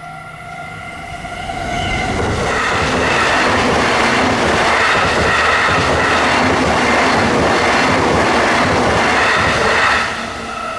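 A train passes over a level crossing, its wheels making a rhythmic clatter over the rail joints; the noise builds about a second and a half in, stays loud for about eight seconds, then drops away near the end. The crossing's warning bell keeps ringing throughout.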